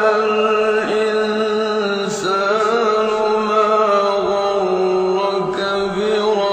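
Male voice reciting the Quran in melodic tajweed style, drawing out one long held note that wavers slightly in pitch now and then.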